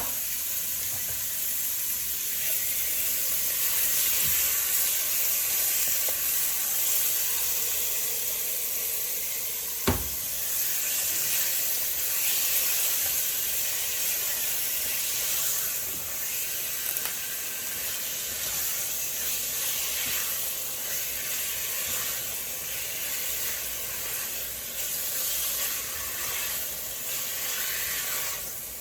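Cubed chicken breast sizzling steadily as it fries in hot oil in a pot. A single sharp knock sounds about ten seconds in.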